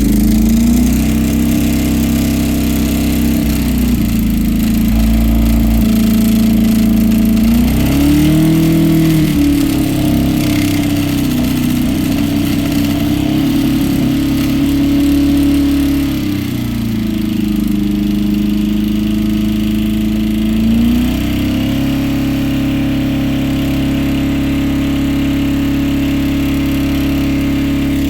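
Toyota engine running hard at high revs with the throttle held open, its pitch rising briefly, sagging for a few seconds, then recovering as it labours while swallowing airsoft BBs near the end of its life.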